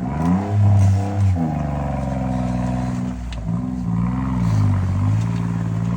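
Car engine running and revved up and down twice, the pitch rising then falling each time, with steadier running between.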